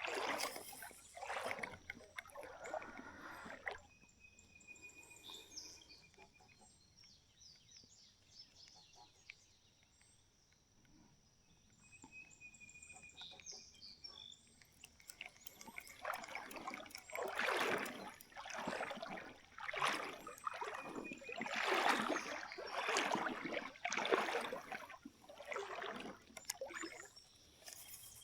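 Steps wading through shallow creek water, sloshing at a walking pace, with a quieter pause in the middle where faint bird calls come through.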